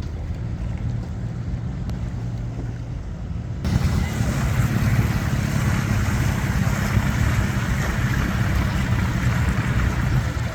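Motorboat engine running steadily, with wind and water rushing past. A little over a third of the way in, the sound jumps suddenly louder and hissier with more wind and spray.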